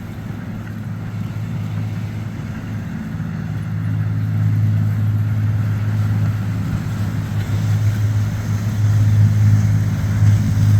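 Motor yacht's engines passing through the inlet, a low steady drone that grows louder as the boat comes closer.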